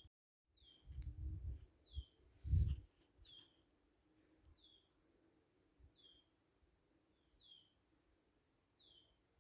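A small songbird calling over and over, a short high note alternating with a falling note, about one pair every second and a quarter. About one to three seconds in there are low rumbles, the loudest near the middle of that stretch, and the sound drops out completely for half a second at the very start.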